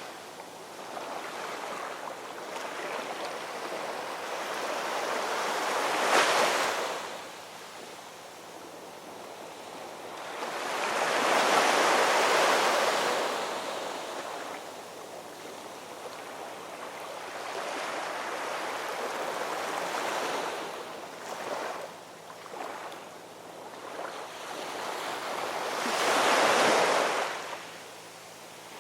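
Ocean surf breaking on a shore, a steady wash of water with three louder waves crashing, about six seconds in, around twelve seconds in and near the end. Some wind on the microphone.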